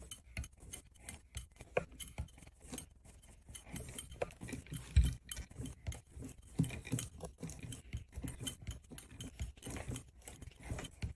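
Hand-pumped hydraulic hose crimper being worked stroke by stroke, a run of small metallic clicks and clinks from the pump handle and dies as it crimps a fitting onto an air-conditioning hose, with one louder knock about five seconds in.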